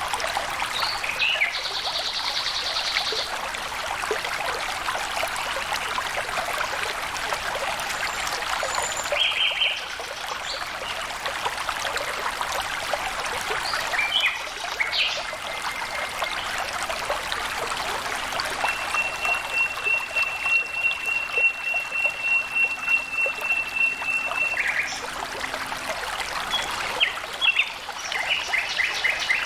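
Water flowing and trickling steadily, with birds calling now and then over it, including one long, even, high trill lasting several seconds in the middle.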